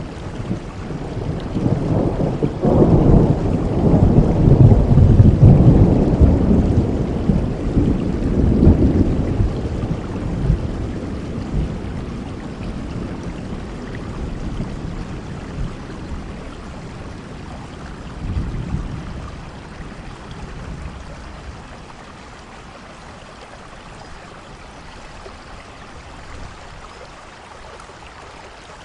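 Thunderstorm: steady rain with a long low roll of thunder that builds in the first few seconds, peaks, and fades away over about twenty seconds, a smaller rumble coming in near the middle, then rain alone.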